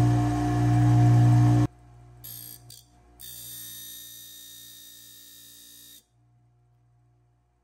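Electric motor of a circular saw blade sharpening machine running with a loud, steady hum, cut off abruptly about a second and a half in. After a short gap the machine is heard again, quieter, with a steady high whine, which stops suddenly about 6 seconds in.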